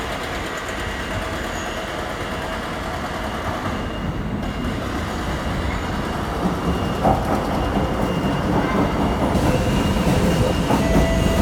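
Kawasaki C751B metro train pulling into a station platform: a steady rumble that grows gradually louder, with clacking over the rails. Thin high tones join in during the second half.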